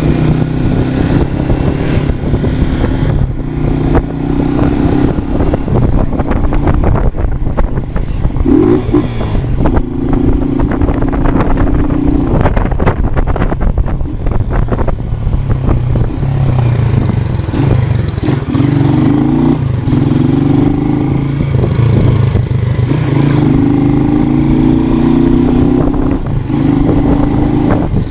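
Motorcycle engine running under way, its pitch climbing several times as it is revved through the gears.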